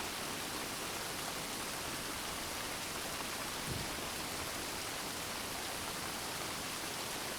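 Steady gentle rain falling on a surface, a soft even hiss of many drops with no thunder.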